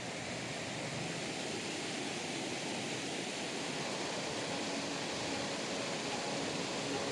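Steady rush of fast-flowing water, a mountain river running over rocks.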